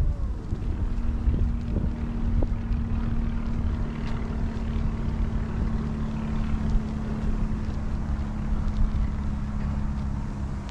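Wind buffeting the microphone, with a steady engine hum underneath that starts about half a second in and stops just before the end.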